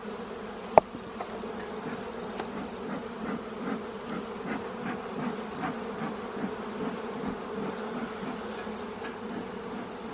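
Honeybees from an opened hive buzzing in a steady hum. There is one sharp knock about a second in and a few light clicks later.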